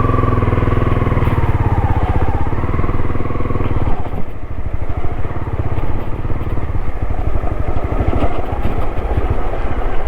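Motorcycle engine pulling in low gear up a steep, rough mountain road, its note rising and falling over the first few seconds. About four seconds in the steady note gives way to a rougher, uneven sound.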